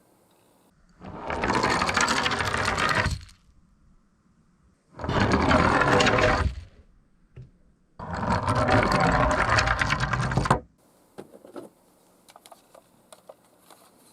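Die-cast miniature toy cars rolling down a slope three times in a row, each run a steady rolling noise of the wheels lasting about two seconds and stopping sharply. A few small clicks follow near the end.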